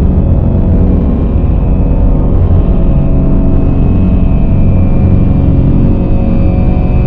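Dark ambient drone music: a loud, dense low rumble with steady held tones above it, unchanging and without rhythm.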